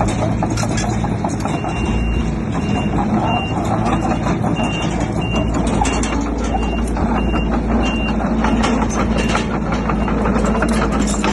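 Heavy machinery's reversing alarm beeping at one high pitch, about two beeps a second, starting about a second and a half in and stopping about two-thirds of the way through. Under it a diesel engine runs steadily with clanking and rattling throughout.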